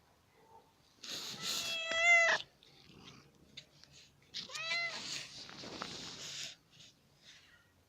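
Domestic cat meowing twice: a long, rising-and-falling meow about a second in and a shorter one about four and a half seconds in.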